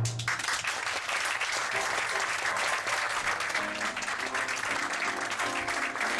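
Audience applauding at the end of a stage musical number, breaking out right as the final sung note stops. Quieter instrumental music plays underneath the applause.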